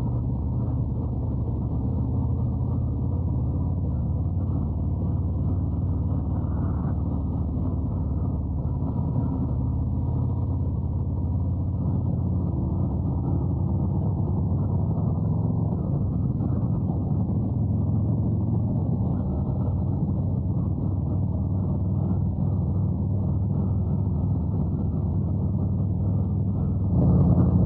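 Harley-Davidson Road Glide's V-twin engine running steadily at cruising speed, a constant low drone with no change in revs.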